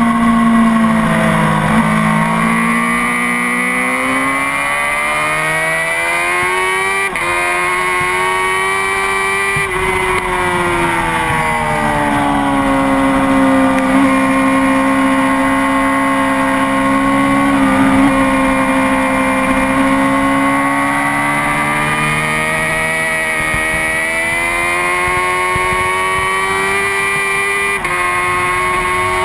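Honda CBR600RR inline-four sport-bike engine at speed, its pitch falling and rising as the rider brakes and accelerates, with sudden jumps in pitch at each gear change and a long stretch held at steady revs in the middle.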